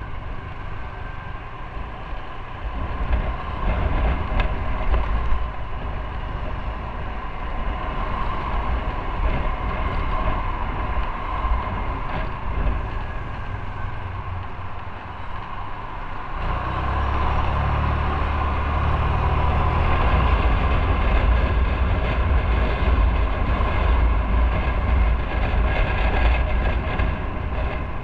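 Motorcycle running on the road, heard from the bike as it rides. The rumble grows louder about sixteen seconds in.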